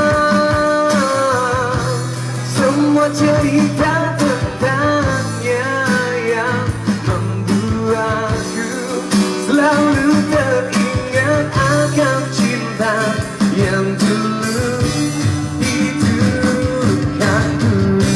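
A busker singing a melodic song with wavering, sustained notes over guitar accompaniment.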